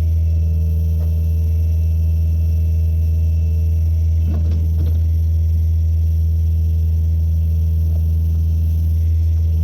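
John Deere 50G mini excavator's diesel engine running steadily at a constant speed. A few faint knocks come about halfway through.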